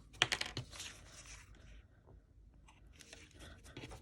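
Handling of craft supplies on a tabletop: a quick run of sharp clicks, then two stretches of soft scratchy rustling.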